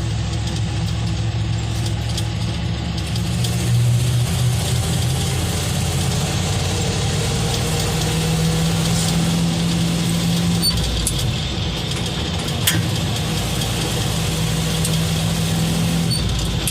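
Chevrolet C60 truck's 350 small-block V8 running steadily, its pitch stepping up and down a few times.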